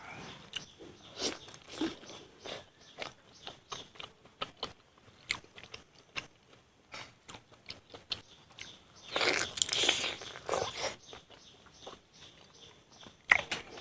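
Close-up eating sounds: biting and chewing of pork and bamboo shoots cooked with rice powder, a run of small crunches and wet mouth clicks. It gets louder and denser for a couple of seconds around the ninth to eleventh second.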